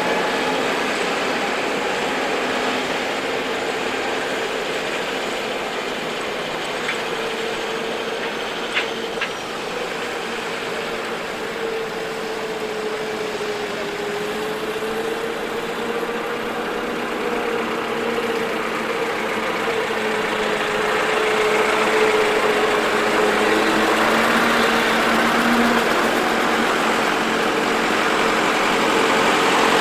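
A vehicle engine running steadily, its note wavering slightly, and growing somewhat louder over the last several seconds.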